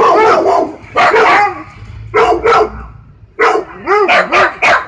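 A dog barking repeatedly, single barks about a second apart, then a quick run of four or five barks near the end.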